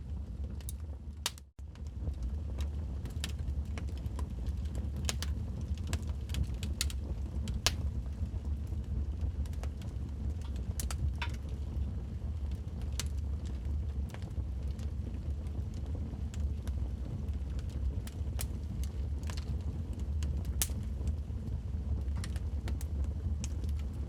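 Log fire crackling, with irregular sharp pops and snaps over a steady low rumble. The sound cuts out for an instant about a second and a half in.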